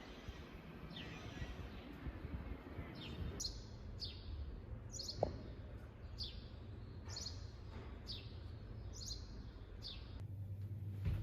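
A small bird calling over faint background noise: a run of short, high chirps, each falling in pitch, repeated about once or twice a second. A single sharp click about five seconds in.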